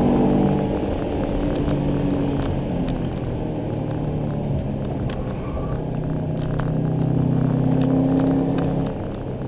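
2002 Subaru Impreza WRX STI's turbocharged flat-four engine heard from inside the cabin while driving through bends. It drops back about half a second in, pulls steadily with its pitch rising a little from about six seconds, then drops back again near the end.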